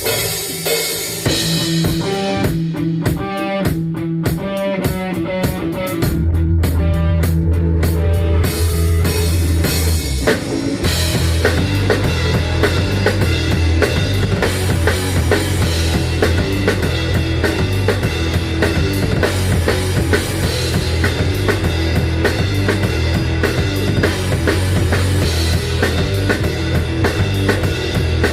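Instrumental rock band intro with drum kit, guitar and bass. It starts sparse and rhythmic, then the bass and full drums come in about six seconds in and the band fills out a few seconds later.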